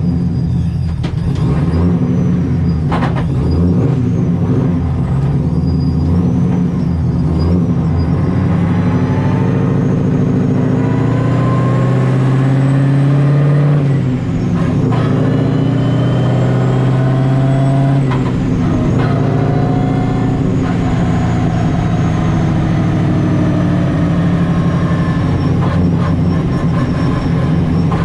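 Supercharged Nissan 240SX driving at low revs: the engine climbs in pitch under acceleration, with a thin high whine rising along with it, drops back about fourteen seconds in, pulls up again and eases off near eighteen seconds, then runs steadily. The whine comes from the TorqStorm centrifugal supercharger.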